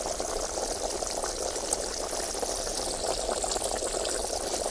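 Steady hiss from a lit tandoor cooking chicken, with a few faint crackles.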